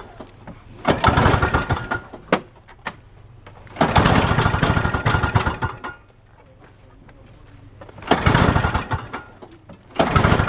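Toro CCR snowblower's two-stroke engine being started repeatedly: four times it fires and runs for a second or two, then dies. It keeps stalling because the carburetor bowl has not yet refilled with the fresh gas.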